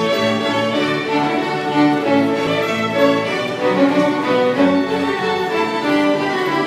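Live string music: violin with lower bowed strings playing held, overlapping notes in several parts, without a break.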